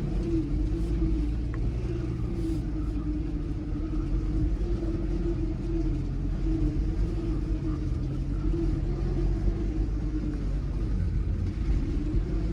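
Ford Ranger pickup's engine running at steady, low revs, heard from inside the cab while the truck crawls a 4x4 trail. It makes an even drone over a low rumble, with no revving.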